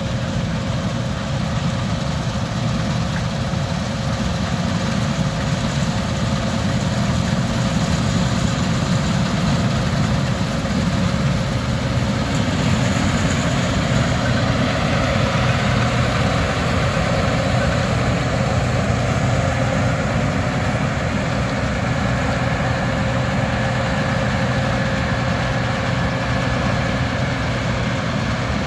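A heavy engine running steadily at an unchanging speed, with a constant low hum.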